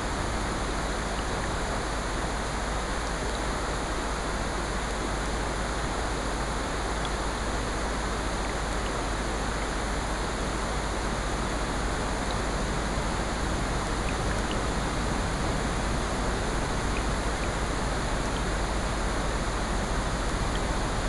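Mixed nature ambience of steady rain and ocean surf, with faint scattered crackles from a fireplace.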